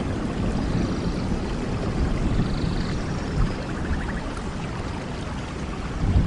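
Steady rain, an even hiss of drops over a deep rumble, with a few faint high chirps.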